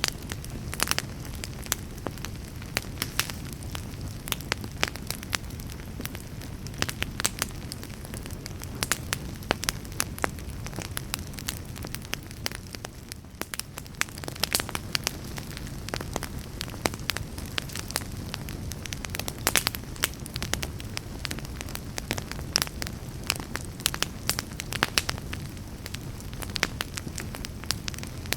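Wood fire burning in a fireplace: logs crackling with frequent sharp pops over a low steady rumble of the flames.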